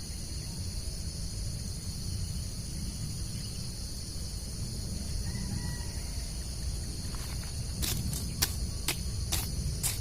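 Steady high-pitched insect chorus with a low background rumble; from about 8 seconds in, a quick run of short, sharp rustling scrapes.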